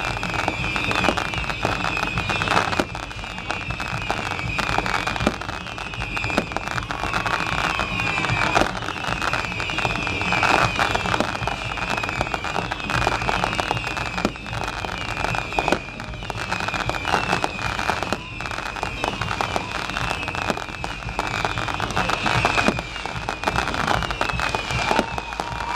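Fireworks exploding in a dense, continuous barrage of bangs and crackles, with a high wavering tone running underneath.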